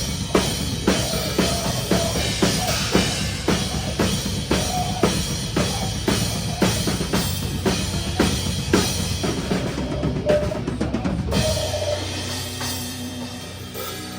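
Metal drum kit played live with the band: heavy kick and snare hits about two and a half a second over dense low-end band noise. The playing stops about twelve seconds in, leaving held tones ringing out as the song ends.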